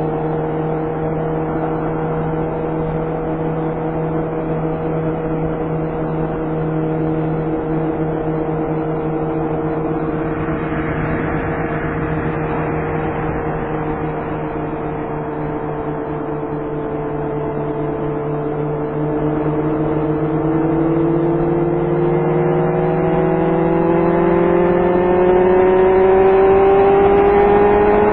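Kawasaki Concours 14's inline-four engine running at a steady cruise, heard from the rider's helmet. About two-thirds of the way through, the revs climb steadily and the engine gets louder as the bike accelerates.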